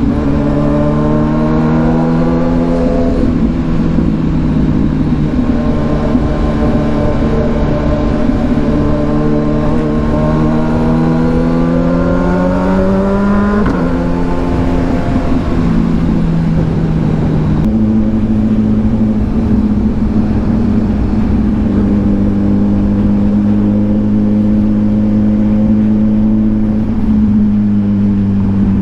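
Kawasaki Ninja 1000SX inline-four with an aftermarket AR exhaust, heard from the riding bike: its note climbs steadily for about ten seconds as it accelerates, drops sharply with a gear change, then holds fairly steady at cruise, over wind and road noise.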